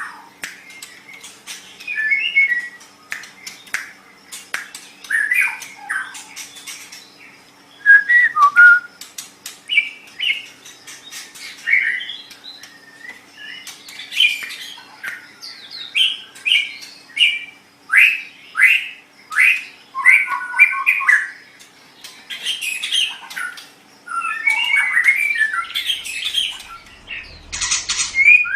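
White-rumped shama (murai batu) singing: a varied run of short whistled phrases, chirps and harsher notes, in bursts of a second or two with brief gaps, mixed with sharp clicks.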